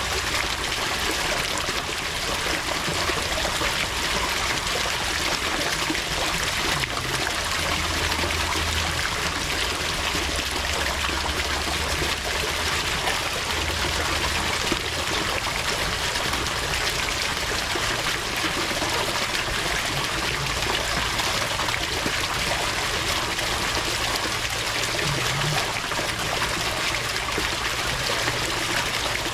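Water running and trickling steadily, an even rushing sound with no breaks.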